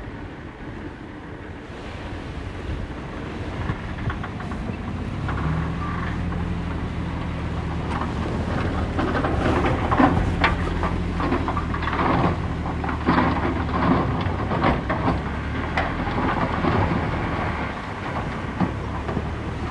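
Heavy earthmoving machinery at work: a diesel engine comes in about five seconds in and runs steadily, with irregular clanking and rattling over it.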